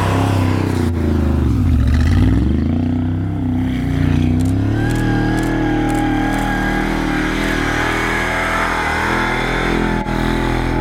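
Mercedes-Benz G-Class AMG engine revving hard off-road, the revs dipping and climbing again about two seconds in, then held high and fairly steady.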